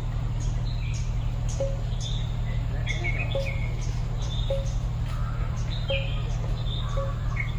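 Birds calling outdoors with short, scattered chirps, with a short low note repeating about once a second, over a steady low hum.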